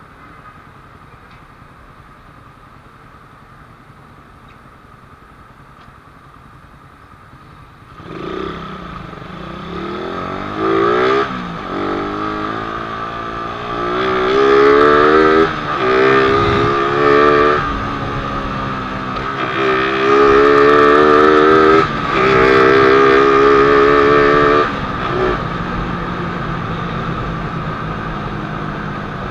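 Suzuki Raider 150's single-cylinder four-stroke engine idling low and steady, then, about eight seconds in, pulling away and accelerating hard. The revs climb and drop again and again as it shifts up through the gears.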